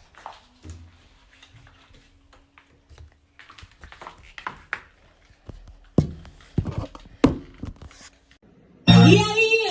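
Scattered taps and knocks over a faint steady hum, with a few louder knocks past the middle; near the end a pop song with singing and a strong beat starts abruptly.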